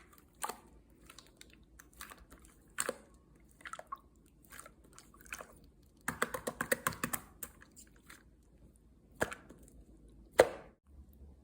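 Close, irregular crunching and clicking sounds. A quick run of clicks comes about six seconds in, and one loud sharp click comes near the end.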